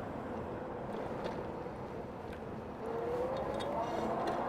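Electric hub motor of a 60-volt e-bike, its whine rising steadily in pitch from about three seconds in as the bike speeds up, over wind and road noise.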